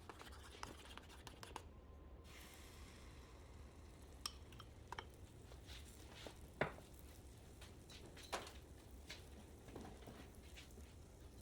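Faint, scattered light clicks and taps of kitchen work, with two sharper knocks about six and a half and eight and a half seconds in.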